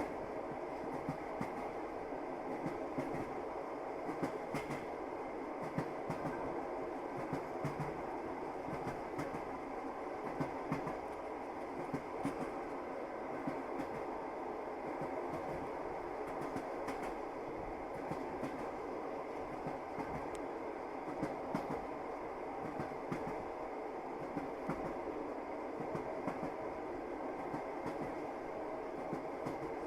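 Passenger train running, heard from inside the carriage: a steady rumble of wheels on rail with irregular clacks and clicks as the wheels pass over the track.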